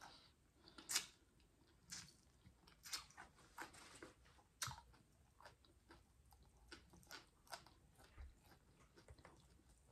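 A person chewing food close to the microphone: faint, irregular wet clicks and bites, sharpest about a second in.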